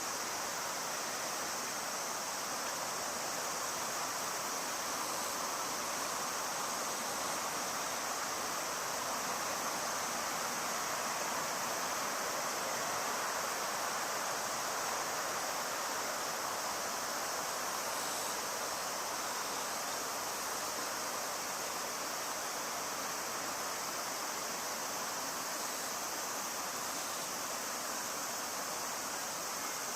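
Steady rushing of river water, with a constant high-pitched drone of insects over it.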